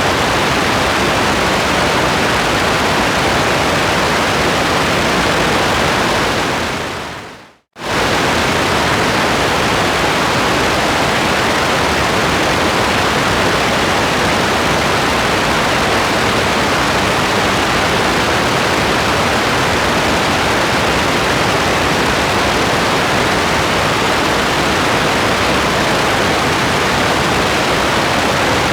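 Steady, even hiss of heavy rain. About seven seconds in it fades out to silence, then cuts back in abruptly less than a second later, like a loop point in the recording.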